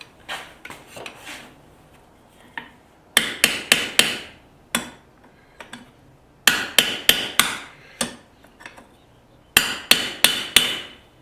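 Blacksmith's hand hammer striking hot steel on an anvil while shaping a pair of tongs. After a few light taps, it lands three quick runs of five or six blows each.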